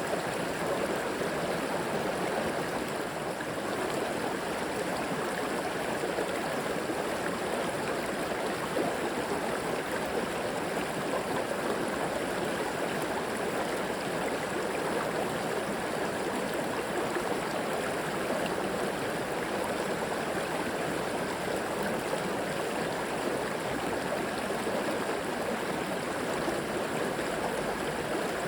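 River water flowing steadily over rocks, an even rushing and gurgling that does not change.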